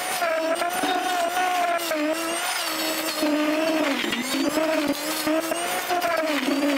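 Cat 299D3 compact track loader working a forestry mulcher, its engine and mulcher head running with a steady whine whose pitch keeps rising and dipping as the load changes.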